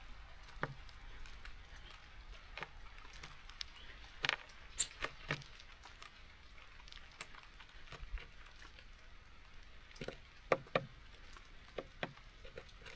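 Irregular sharp taps and clicks of small birds pecking and hopping on a wooden bird feeder, over a faint steady hiss of rain.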